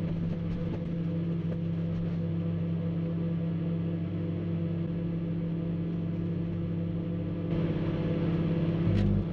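Microwave oven running with a steady electrical hum and faint scattered clicks, with a banana heating inside. Near the end the sound grows louder and noisier, and there is one sharp click.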